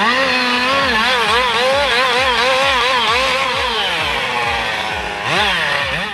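Chainsaw engine running at high revs, its pitch wavering up and down about three times a second, over a steady pulsing low beat.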